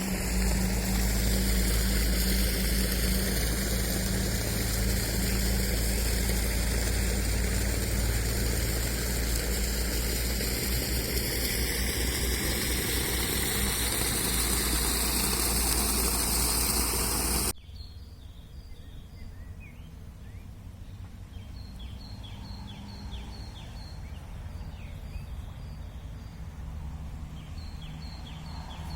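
Loud, steady rushing noise with a low rumble and hum, which cuts off abruptly about two-thirds of the way through. Quieter outdoor ambience follows, with a bird calling in quick, high, repeated chirps.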